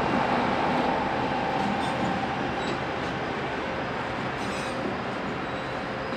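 BNSF freight train of covered hopper cars rolling past, a steady rumble of steel wheels on rail with a faint steady whine over it, easing off slowly.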